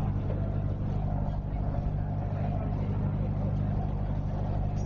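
Dive boat's engine running steadily, a constant low hum.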